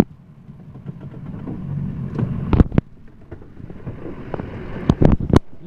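A diesel truck engine running low and steady, with a couple of loud, sharp clunks about two and a half seconds in and a cluster of them near five seconds.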